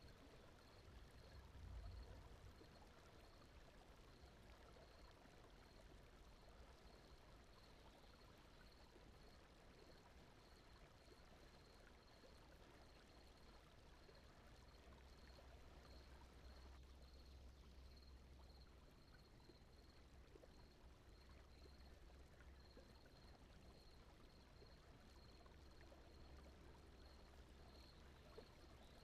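Faint, steady brown-noise sleep bed mixed with a soft running-water ambience, with a faint high-pitched pulse repeating a little under twice a second.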